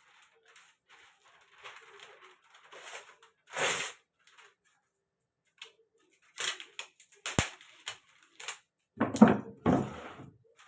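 Kitchen handling sounds: scattered clicks and knocks of utensils and containers being set down and moved, with a louder cluster of clatter near the end.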